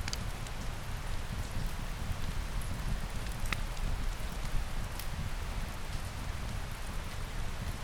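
Steady rain falling, an even hiss over a low rumble, with a few sharp pops about a third of a second, three and a half and five seconds in.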